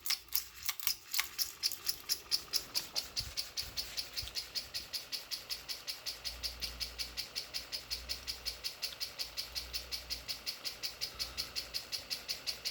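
Canarm Twister ceiling fan spinning up to high speed in reverse, giving a rhythmic high-pitched ticking. The ticks come faster over the first few seconds and settle at about five a second.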